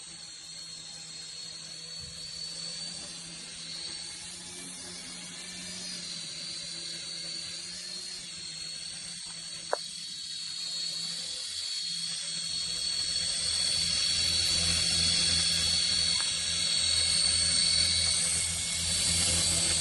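Mini RC helicopter's small electric motor and rotor whirring steadily with a high whine and low hum, growing louder from about halfway. There is one sharp click about ten seconds in.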